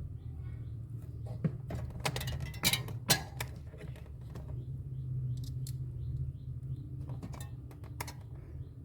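Scattered sharp clicks and knocks of refrigerator parts and tools being handled during a repair, the loudest a little after two and three seconds in, over a steady low hum.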